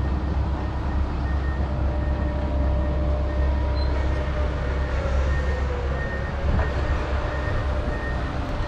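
A large engine running steadily: a continuous low rumble with faint steady whining tones over it.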